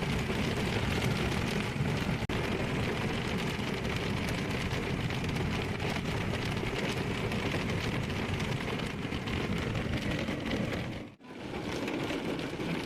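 Steady noise of a car driving in the rain, with the sound of tyres on the wet road and rain on the car blending together. The sound cuts out for an instant about two seconds in and dips briefly near the end.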